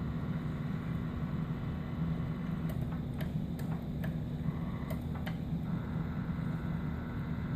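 Lionel R-30 subway model train under power on O-gauge track: a steady low electrical hum, with a few light sharp clicks in the middle.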